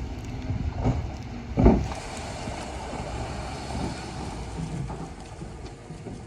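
Heavy diesel earthmoving machinery running with a low rumble, with a loud knock about one and a half seconds in and a smaller one just before it.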